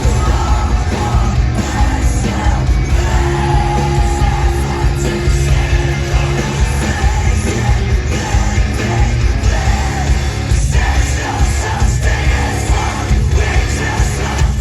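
Loud live rock band playing, with a vocalist singing and yelling over heavy bass and drums.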